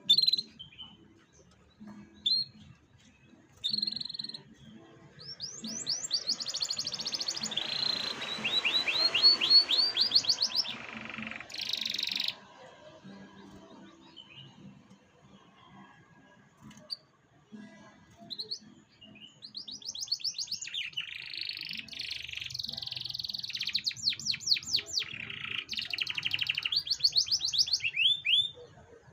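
Domestic canary singing: a few short chirps, then two long song bouts of fast trills and rolling phrases, the loudest parts about halfway through the first bout and again near the end.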